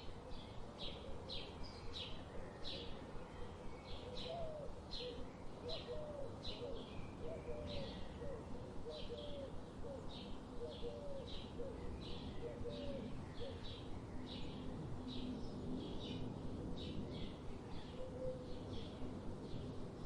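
Birds chirping: short, high chirps repeat about twice a second, with a second bird's lower, hooked notes repeating about once a second from about four to fourteen seconds in, over a steady low background hiss.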